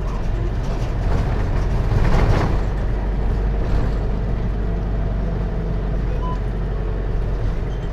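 Hino Liesse RX4JFEA microbus's J05C four-cylinder diesel engine running steadily, heard from inside the cabin with road noise. The noise swells louder briefly about two seconds in.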